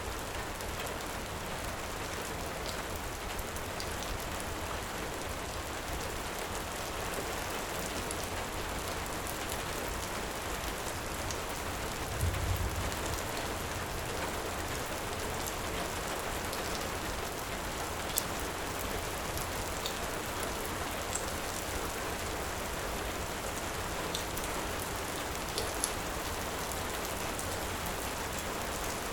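Steady heavy rain with a few sharp pops from a crackling wood fire, the clearest in the second half, and a brief low rumble about twelve seconds in.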